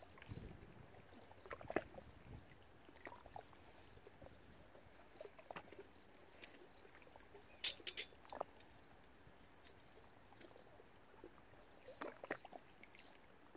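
Faint, irregular small clicks and light water sounds over a quiet background, the sharpest a little before the middle and again near the end.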